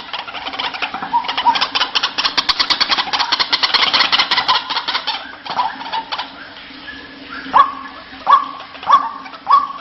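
White-breasted waterhen (ruak-ruak) calling: a rapid run of harsh repeated notes, about seven a second, for the first half. Then, from about three-quarters of the way in, a series of short rising calls a little under a second apart.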